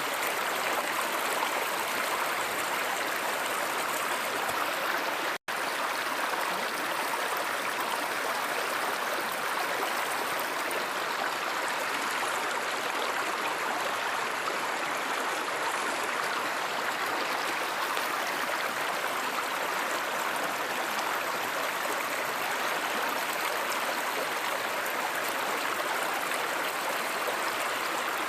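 Steady rushing and babbling of a flowing stream or river. The sound drops out completely for an instant about five seconds in.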